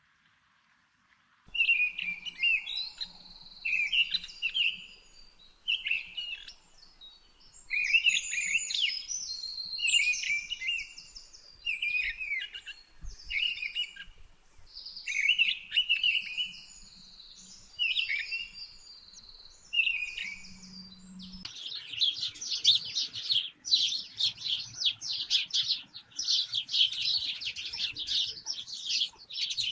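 Birds singing, short repeated high-pitched phrases every second or two. About two-thirds of the way through, this changes abruptly to a dense, unbroken chatter of many birds calling at once.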